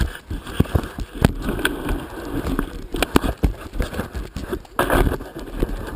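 Irregular knocks, clicks and rustling close to the microphone: handling noise as the helmet and camera are being put on.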